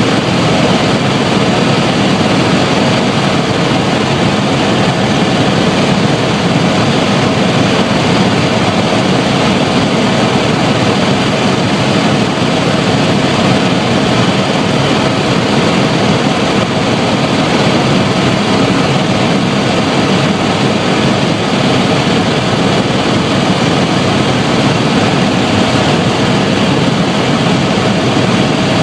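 Helicopter engine and rotor running steadily, a loud constant din with a thin steady whine.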